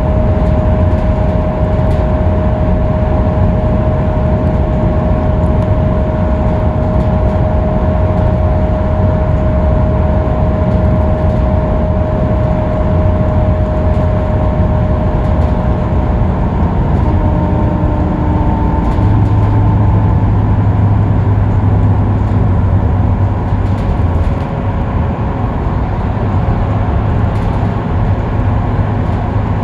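Scania K310UB city bus cruising on the freeway: a steady low drone of engine and road noise with a thin whine over it. Past the middle the whine fades and, for a few seconds, a deeper hum takes over.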